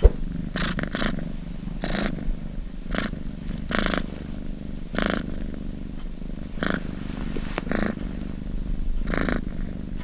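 Domestic cat purring: a continuous low rumble, with a brief, brighter, breathier surge roughly every second.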